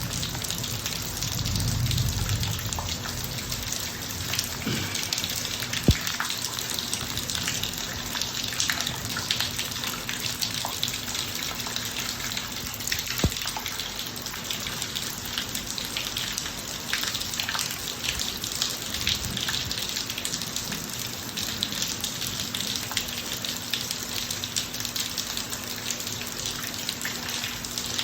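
Steady rain falling on a paved driveway, with individual drops tapping and a few sharper taps. There is a low rumble about two seconds in.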